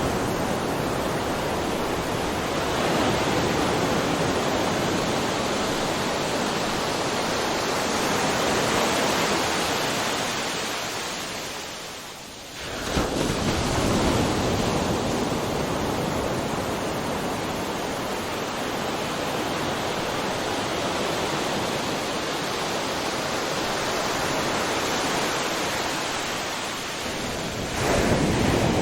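Ocean surf, waves breaking one after another in a continuous rushing wash. About twelve seconds in it eases off briefly, then surges back abruptly, and it swells again near the end.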